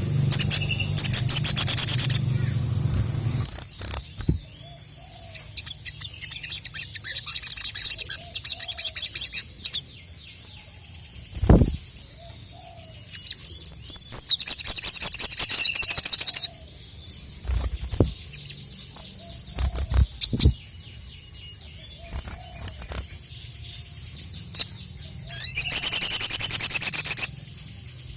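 Sogok ontong (sogon) bird singing in loud trains of rapid, high chirps, each two to three seconds long, about four times, with softer chirps between them. A few short, dull thumps come between the song bursts.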